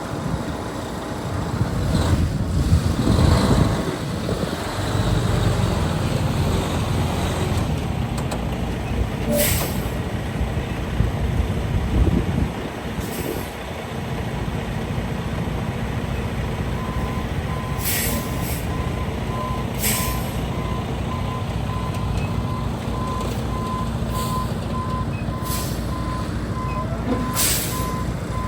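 Western Star heavy truck's diesel engine running as it drives and manoeuvres, with short hisses of air from the air brakes several times. From about two-thirds of the way through, a backup alarm beeps steadily as the truck reverses.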